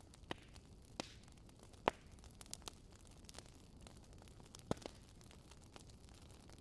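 Campfire crackling: irregular sharp pops and snaps over a faint steady hiss, the loudest pop about two seconds in.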